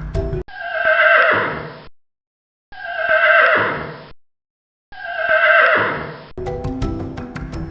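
A horse whinnying, the same call played three times with short silent gaps between; each whinny starts high and falls away in pitch.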